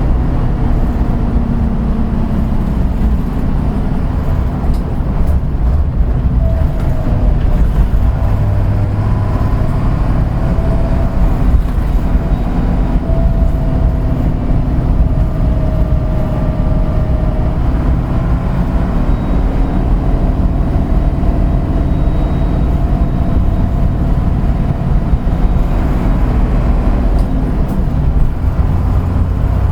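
Route bus engine and running gear heard while the bus is under way: a steady low drone whose engine note drifts up and down a little as it changes speed.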